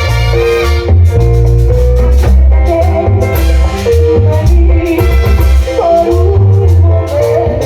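A live Latin dance band playing, with heavy bass, drum kit and bright melodic instruments over a steady beat.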